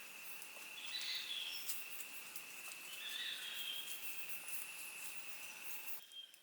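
Forest ambience: an insect's steady high-pitched call runs over a soft hiss, and a bird gives two short calls, about one second and three seconds in. Near the end the ambience suddenly drops away.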